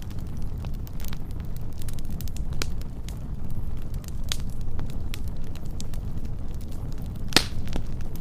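Wood fire burning with a steady low rumble and scattered sharp crackles and pops, one loud crack near the end.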